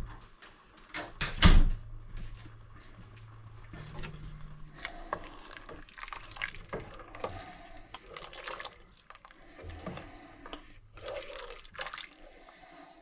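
A spoon working in a pot of chicken noodle soup: liquid sloshing and dripping, with light clinks and one sharper knock about a second and a half in.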